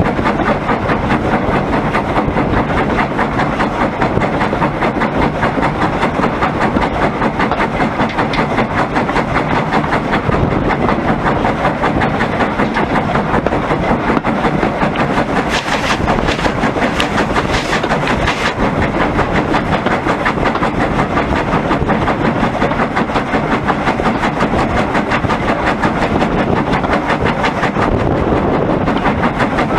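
Steam tank locomotive running with its train, a rapid, steady beat going on without a break. A short burst of hiss comes about halfway through.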